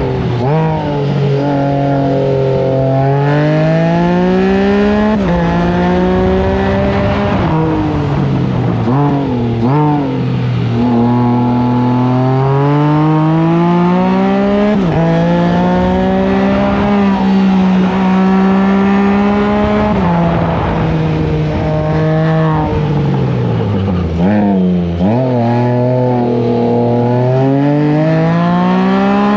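Can-Am Spyder F3-S three-cylinder engine under hard acceleration. Its pitch climbs through each gear and drops back at every upshift. It holds fairly steady for a few seconds mid-way, falls off as the throttle closes about twenty-four seconds in, then climbs again.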